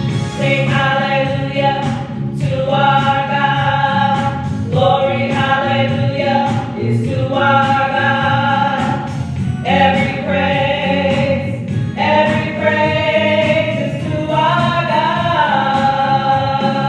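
Gospel choir singing with instrumental accompaniment, in sustained phrases that change every couple of seconds.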